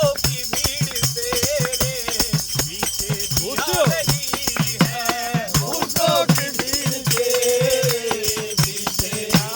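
A group of men singing a Hindu devotional bhajan together, with a steady beat of about three strokes a second and rattling percussion.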